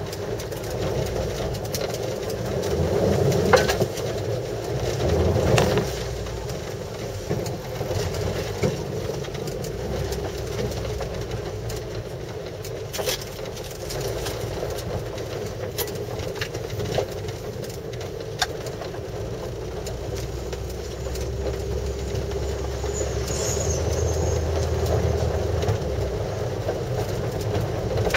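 Mazda Demio's engine running steadily as the car drives over gravel, heard from inside the cabin, with a few short clicks and knocks from the car.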